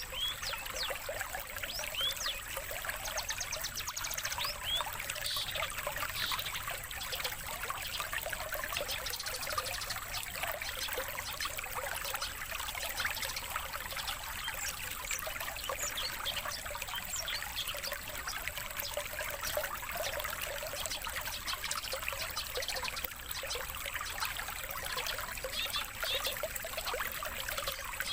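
Continuous trickling water, with short high bird chirps scattered through it.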